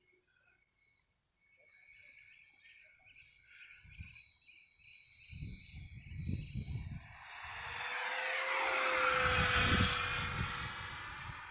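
Radio-controlled model Yak-130 jet making a pass. Its whine grows louder over several seconds, peaks about nine seconds in and then fades, with the pitch falling as it goes by.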